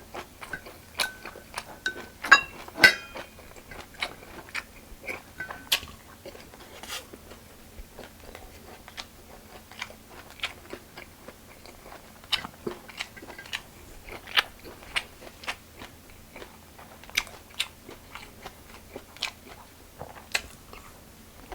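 Close-up chewing of a large mouthful of lettuce-wrapped spicy pork (ssam): irregular wet crunches and mouth clicks. A few brief ringing clicks come about two to three seconds in.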